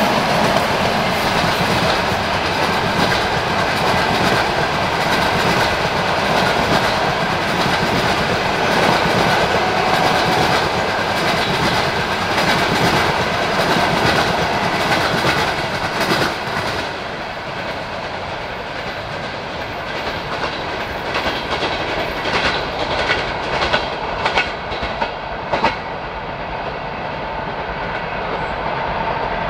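Passenger train coaches rolling past at speed, a steady rush of wheels on rail with clickety-clack over the rail joints. After about seventeen seconds the rush dies down as the train draws away, and single wheel clacks over the joints stand out for several seconds before fading.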